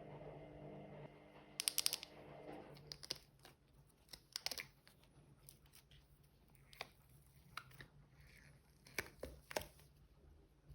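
Washing machine humming steadily, the hum stopping about two and a half seconds in, followed by scattered sharp clicks and crackles.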